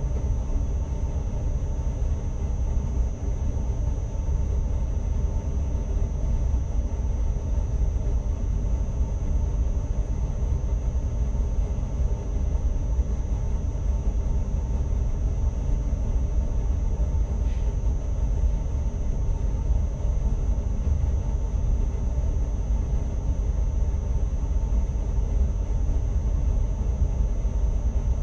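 Steady running noise of an NS ICMm (Koploper) electric multiple unit, heard inside the driver's cab while under way: a continuous low rumble of wheels on rail with a thin, steady high tone over it.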